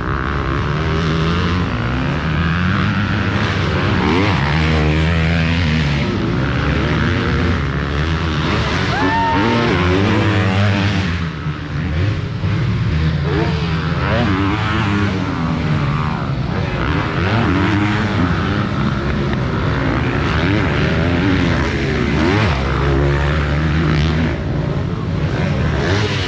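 Several motocross bikes racing, their engines revving up and down and overlapping.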